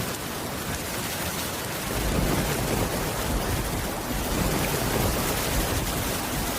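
Steady heavy rain pouring, with a low rumble of distant thunder rolling in about two seconds in.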